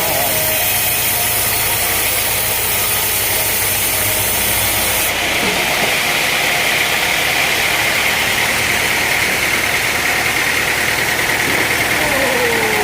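Sawmill machinery running steadily, an engine-driven saw. Its sound changes abruptly about five seconds in, losing its hiss and turning to a higher whine.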